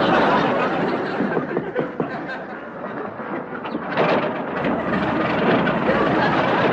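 Studio audience laughter from a sitcom laugh track, a dense, uneven crowd laugh that swells again about four seconds in.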